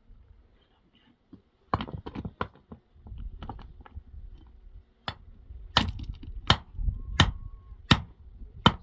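Repeated chopping blows of a hand tool: a few scattered strikes, then a steady run of about three blows every two seconds.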